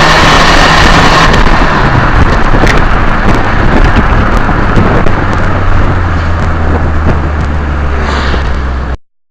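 Volkswagen Golf TD turbodiesel running loudly, with a steady high whine at the start that fades after about a second, then a low steady drone from about halfway. The sound cuts off suddenly near the end.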